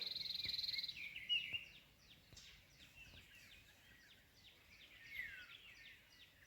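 Birds calling: a loud, buzzy high trill for about the first second and a couple of sharp chirps, then a long series of quieter, quick downward-sweeping chirps.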